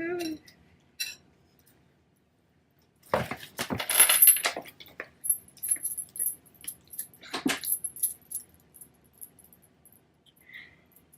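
Forks and utensils clinking and scraping against dishes while eating salad: a dense burst of clatter about three seconds in, then scattered light clicks and taps.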